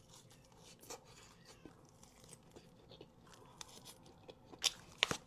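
Faint close-up mouth sounds of someone eating a fast-food burger: quiet chewing with small clicks, then a couple of sharper crunchy bites near the end.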